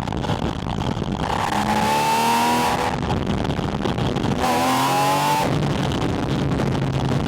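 Porsche 718 Spyder RS's naturally aspirated 4.0-litre flat-six, heard through a microphone on its air intake, pulling hard under throttle twice, each pull lasting a second or so. Between and after the pulls the engine runs more steadily at lower load.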